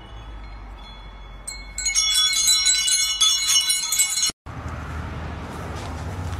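Metal tubular wind chime being knocked about by a white parrot. From about two seconds in, a cluster of bright, overlapping ringing tones sounds, then stops abruptly. A low, steady outdoor background noise follows.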